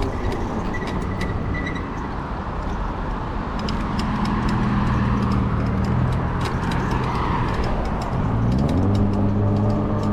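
Riding on an e-bike: wind and road rush with a motor whine that holds steady, then rises in pitch about eight and a half seconds in as the bike speeds up, with scattered light ticks.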